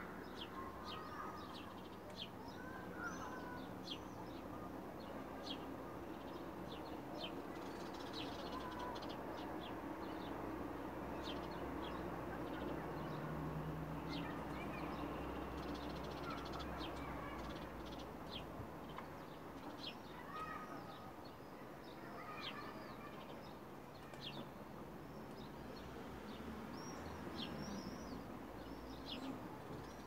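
Birds calling outdoors: many short, high chirps come several times a second throughout, with a few lower calls among them, over a steady low background hum.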